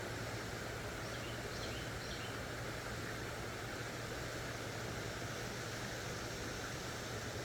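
Steady rushing of creek water, picked up through a phone's built-in microphone, with a few faint high chirps about a second in.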